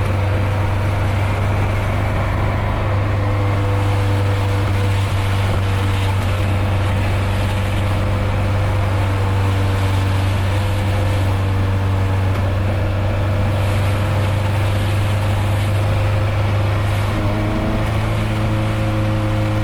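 Nissan 240SX engine running at a steady cruise, a constant low drone with road noise, shifting a little in pitch about seventeen seconds in.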